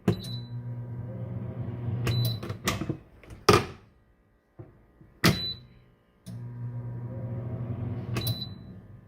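An air fryer oven runs with a low hum, then stops and restarts as its loose door is worked. Short electronic beeps and door clicks mark each change, and the loudest sound is a clunk of the door about three and a half seconds in. The door is loose enough that it disengages unless pushed on.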